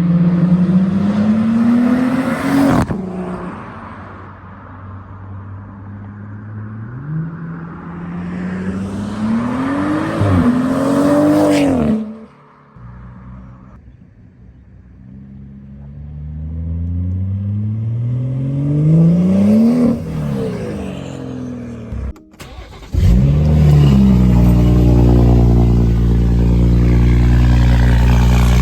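BMW 340i's turbocharged B58 inline-six through a single-exit exhaust, pulling hard several times, its pitch climbing steadily on each pull before cutting off abruptly. Near the end it comes on suddenly and loudly, the pitch dropping and settling into a steady, deep drone.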